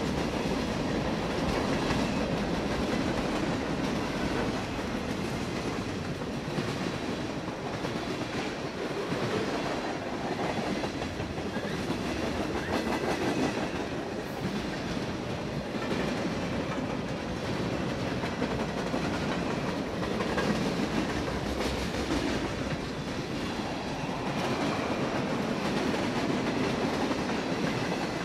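Freight train of boxcars and then tank cars rolling past, its steel wheels running on the rails in a steady, continuous noise.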